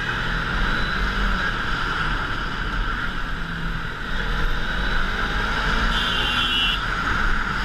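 Motorcycle riding along with its engine running steadily, under a steady rush of wind over the microphone.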